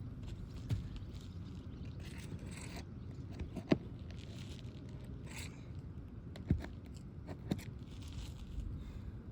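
Asphalt roof shingles being worked loose to get at their nails: several short scrapes and a few sharp clicks of a tool on shingle and nail.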